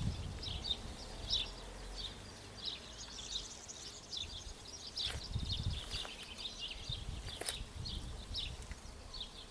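Small songbirds chirping over and over, short high notes, with occasional low rumbles underneath.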